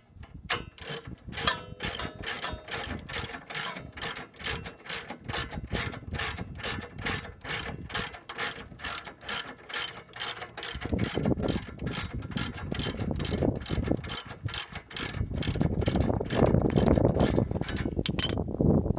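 Ratchet clicking steadily, about three or four clicks a second, as a hand tool is worked on the car. A lower rough rumble joins in about halfway through and grows louder before the clicking stops shortly before the end.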